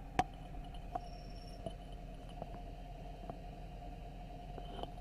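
Steady low electrical hum with a sharp click just after the start, then fainter clicks every second or less.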